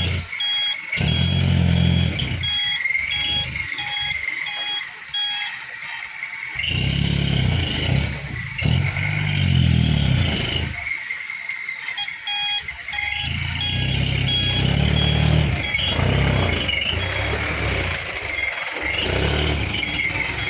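Mitsubishi Canter dump truck's diesel engine running in repeated surges, with a reversing alarm beeping about twice a second for the first few seconds and again in the second half.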